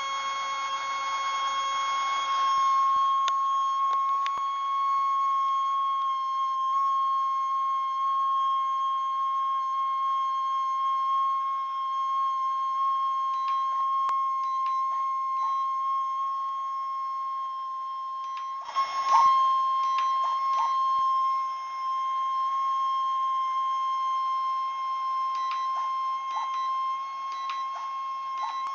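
Tilt servo in a model aircraft's left engine nacelle buzzing with a steady high-pitched whine, broken by scattered small clicks and a brief noisy rattle about two-thirds of the way through. The owner thinks the servo is stripped.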